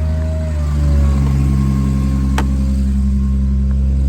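Bucket truck's engine idling steadily, with a single sharp click a little past the middle.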